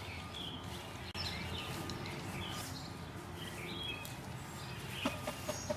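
Faint, scattered short bird chirps over steady outdoor background noise, with a couple of faint clicks near the end.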